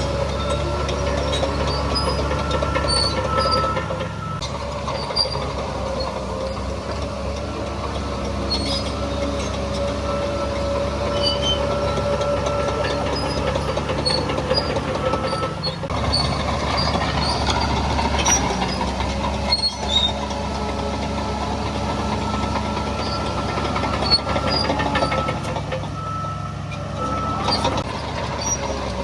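Crawler bulldozer working: its diesel engine runs steadily under load, with a steady whine and scattered metallic clicks and clanks from the running gear.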